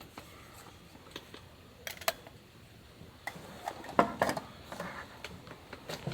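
A series of light clicks and knocks from small objects being handled and set down, the loudest about four seconds in.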